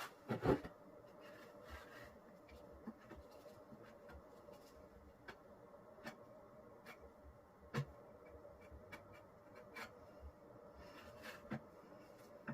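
Faint scraping and light clicks of a tool spreading Henry Feather Finish cement over a tabletop, with a sharper knock about half a second in and another near the middle. A faint steady hum runs underneath.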